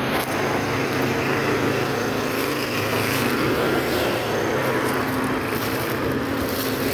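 Motorcycle engine running steadily while riding, under a wash of wind and road noise.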